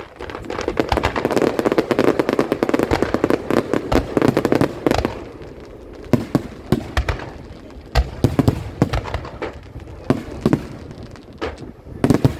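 Aerial fireworks exploding: a dense volley of crackling reports for the first few seconds, then separate bangs a second or two apart.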